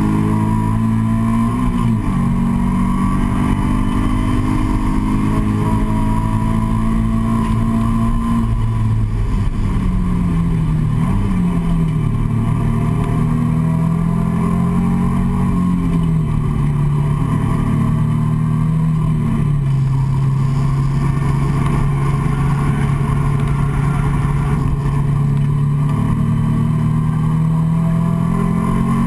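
Nissan 350Z's V6 engine heard from inside the cabin under hard acceleration on track, rising in pitch through the gears with upshifts about two and eleven seconds in. In the second half the pitch falls and then holds steadier and lower as the car slows for the next corner.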